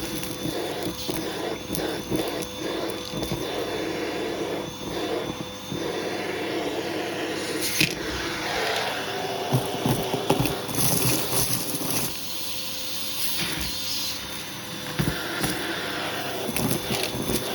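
Hoover vacuum cleaner running with a steady motor whine while its hose tool is worked over a shag rug, with irregular knocks and scraping as the tool moves through the pile.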